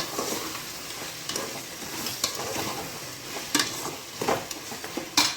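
Boiled mutton being stirred into a tomato masala frying in oil: a steady sizzle, with the spoon scraping the pan about five times.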